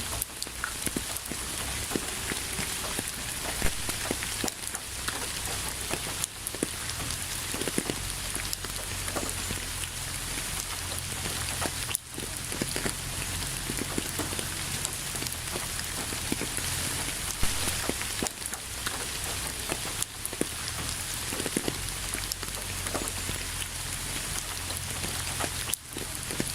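Steady rain falling on a surface: an even hiss with many separate drops pattering close by.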